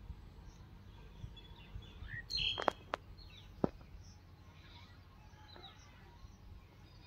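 Outdoor ambience with birds chirping intermittently, a louder burst of chirps about two and a half seconds in, followed by three sharp clicks.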